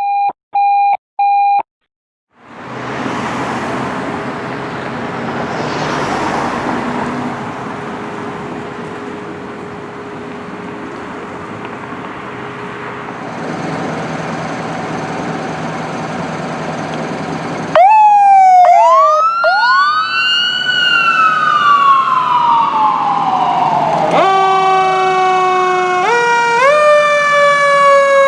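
Three short electronic beeps, then a steady engine rumble. About eighteen seconds in, a fire truck's and rescue ambulance's sirens start, their pitch sweeping up and then falling slowly. Near the end several siren tones step up in pitch together.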